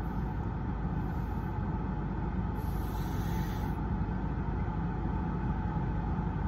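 Car engine idling, a steady low rumble heard inside the cabin, with a brief hiss about two and a half seconds in.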